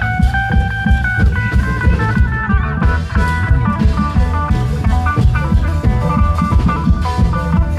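Isan klong yao long-drum band music: drums beating a steady fast rhythm under an amplified plucked-string lead melody.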